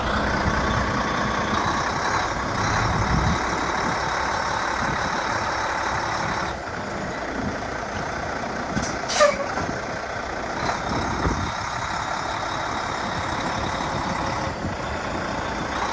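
Heavy truck tractor's Volvo D13 diesel engine idling steadily, with a brief sharp noise and a short falling squeal about nine seconds in.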